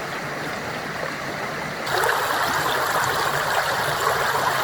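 A small burn (stream) running, a steady rush of water that gets louder about two seconds in.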